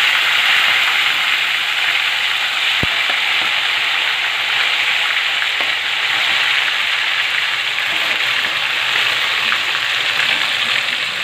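Cooked chicken pieces sizzling loudly and steadily in hot oil in a kadai, just put in to fry, with one brief click a few seconds in.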